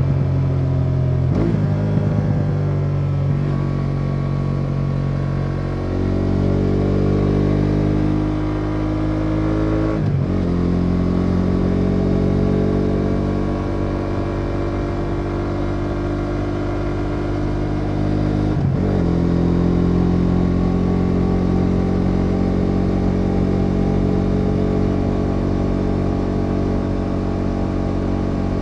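BMW F 850 GS Adventure's 853 cc parallel-twin engine pulling at highway speed, with wind rush on the onboard microphone. The note climbs in pitch as the bike accelerates and breaks briefly a few times at gear changes. The break about two-thirds of the way in is the upshift into fifth, after which the note settles lower and steady.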